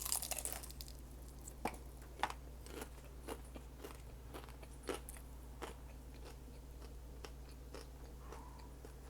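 A person biting into a homemade beef taco close to the microphone: a loud crunchy bite right at the start, then chewing with scattered small crunches and mouth clicks.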